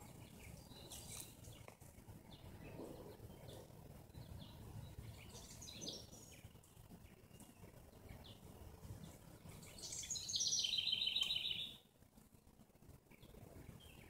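Songbirds chirping here and there over a faint low background rumble, with one louder rapid, trilled song about ten seconds in that lasts under two seconds and stops abruptly.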